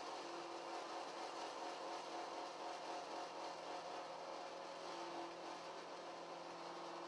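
BTM 71 51 ADS CNC 3000 saw machine running, a steady mechanical hum and whir with several held tones.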